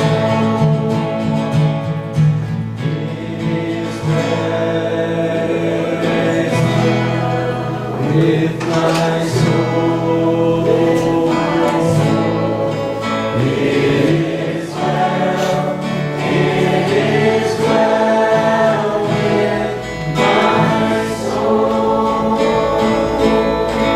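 Church worship music: a group of voices singing a gospel song together over instrumental accompaniment that includes guitar.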